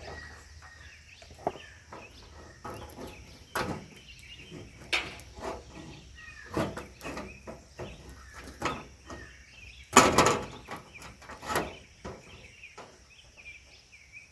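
Gazebo roof pieces being handled and fitted into place: a string of irregular knocks and clatters, the loudest about ten seconds in.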